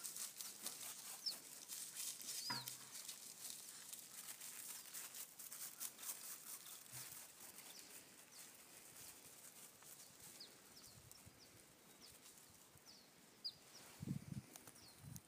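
Faint outdoor quiet with small birds giving short, high chirps now and then, over a light crunching patter of footsteps on gravel. A few low bumps come near the end.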